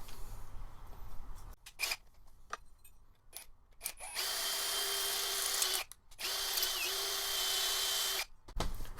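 Electric drill running in two steady bursts of about two seconds each, with a short stop between, boring out a hole with a bit chosen as the closest size. A few clicks and knocks of handling come first.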